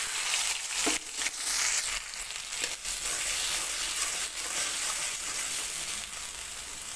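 Ginger paste and poppy-seed paste sizzling in hot mustard oil in a metal karahi, with a spatula scraping and stirring through them in short strokes.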